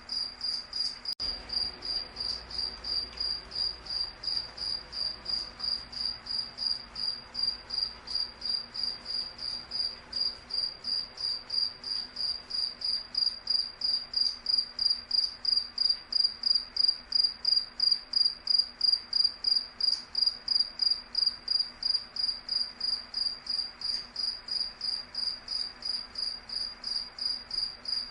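A cricket chirping, high-pitched chirps repeating evenly about three times a second.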